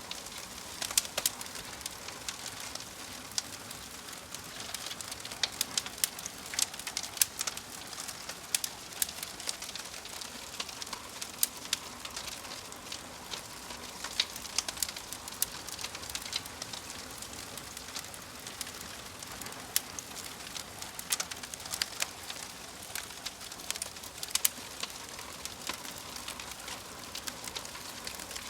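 Wood fire crackling: a steady hiss of burning with frequent sharp, irregular pops and snaps.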